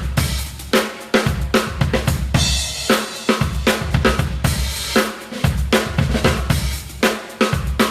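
Crush drum kit played in a groove during a sound check: bass drum, snare, hi-hat and cymbals struck in a steady rhythm, several hits a second.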